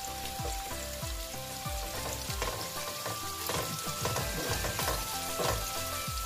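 Onions, garlic and curry leaves sizzling as they fry in hot oil in a non-stick pan, stirred with a wooden spatula that brushes and scrapes the pan. Soft background music plays underneath.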